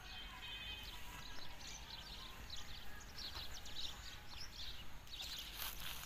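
Faint outdoor farm ambience with many small birds chirping in short, scattered calls over a steady low background hiss.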